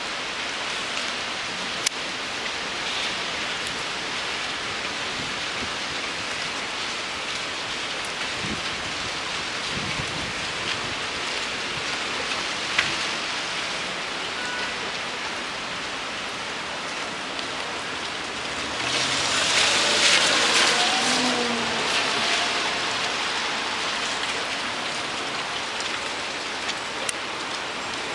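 Steady rain-like hiss of heavy, wet snow coming down, with a louder swell lasting a few seconds about two-thirds of the way through.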